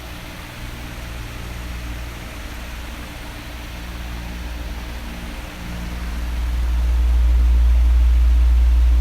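Electric fan running steadily: an even rushing noise over a low motor hum. About six seconds in it swells louder and stays up, as an oscillating fan does when its head turns toward the microphone.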